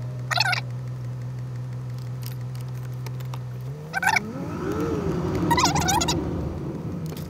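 Car engine idling steadily with the vehicle at a standstill, then revving up as it pulls away a little over halfway through. Brief high-pitched squeaks or chirps break in a few times.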